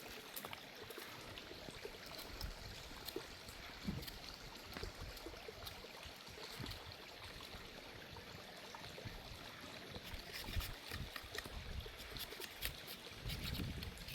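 A small stream running, a steady trickling rush of water, with a few light clicks and knocks scattered through.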